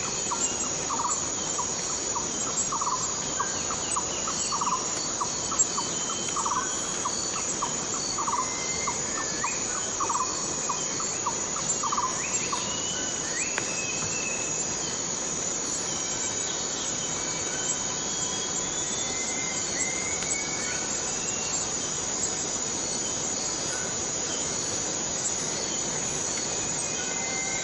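Forest cicadas droning steadily at a high pitch. Over the drone a repeating call near the middle of the range sounds about once every two seconds until roughly halfway through, and short rising bird chirps come and go.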